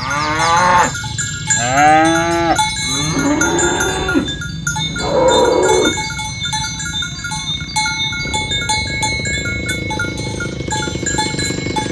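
Cows mooing, about four long calls in the first six seconds, over cowbells clanking and ringing throughout.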